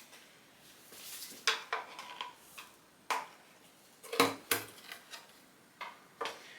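Hand tools, bolts and metal engine parts clinking and knocking: a handful of separate sharp metallic clinks at irregular intervals as the timing cover of a GM LS1 V8 is unbolted and worked off.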